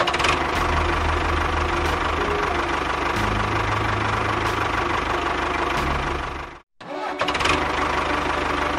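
A small motor running with a steady, noisy whir and faint regular clicks. It cuts out completely for a moment about two-thirds of the way through, then carries on.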